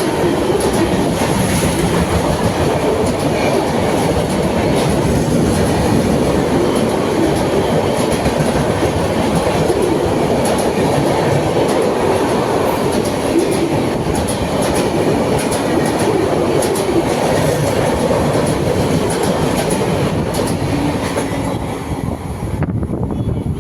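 High-speed express train passing at speed, a loud, steady rolling clatter of coaches and wheels with repeated clicks over the rail joints. It starts to fade near the end.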